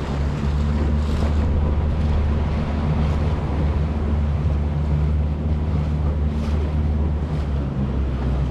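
Small boat's outboard motor running at a steady speed, a constant low hum, with wind buffeting the microphone and water rushing past the hull.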